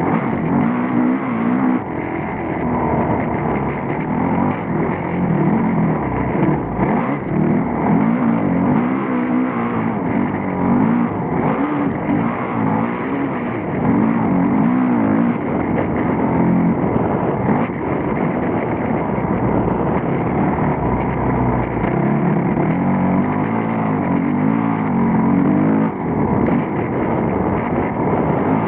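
Motocross bike engine heard up close from the handlebars, revving up and dropping back again and again as the bike is ridden, with a brief sharp dip in the revs near the end.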